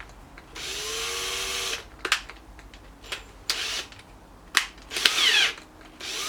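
Power drill run in several short bursts, its motor whining up to speed and winding back down, with sharp clicks between the runs.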